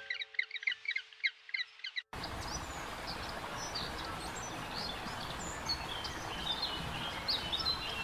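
Many short, high bird chirps and whistles over a steady noisy background, starting at a hard cut about two seconds in. Before the cut, a quick run of chirp-like notes plays over a few held tones.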